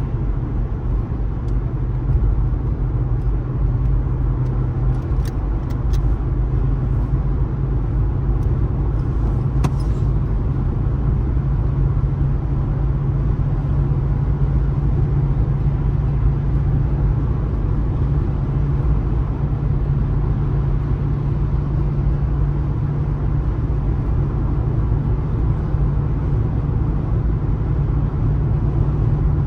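A car driving along the road: steady low rumble of tyre and road noise, unchanging throughout.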